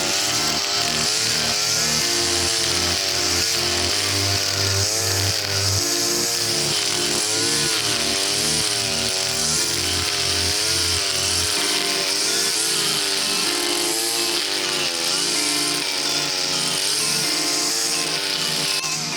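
52cc two-stroke backpack brush cutter with a nylon-line trimmer head, running at high speed while cutting through thick brush, under background music with a stepping bass line.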